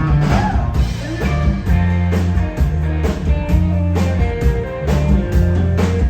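Live band music: electric guitars and bass over a steady drum beat.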